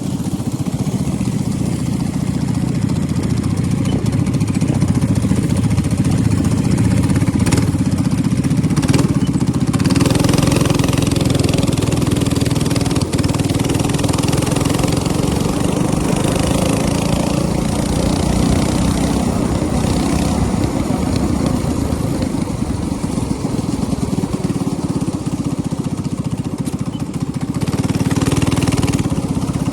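Small minibike engine running loudly and continuously, its note shifting about ten seconds in and again near the end.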